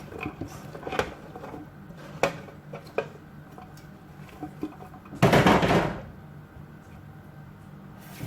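Kitchen handling sounds while chicken and vegetables are mixed in a big container: a few light knocks and clinks in the first three seconds. About five seconds in comes a loud rushing noise lasting under a second.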